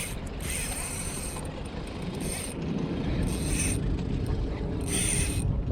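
Spinning reel working in short mechanical rasping bursts, four of them about a second and a half apart, over a steady low rumble.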